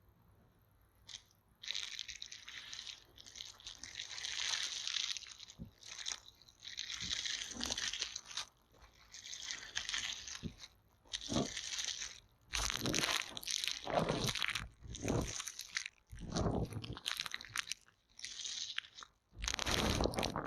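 Close-miked ASMR sounds of a bamboo stick prodding and scraping at the microphone: irregular crunchy scratches in short strokes, growing fuller and louder in the second half.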